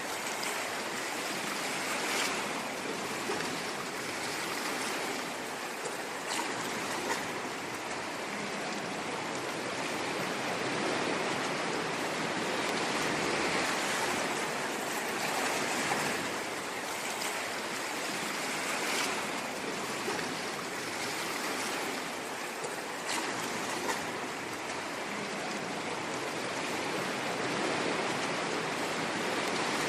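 Ocean waves washing on a shore, an even hiss of surf that swells and eases every few seconds.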